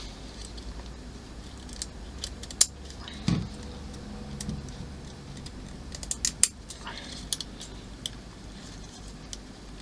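Small plastic model-kit parts being handled and pressed onto their mounting lugs: a dozen or so sharp, irregular clicks and taps, with a cluster of them about six seconds in.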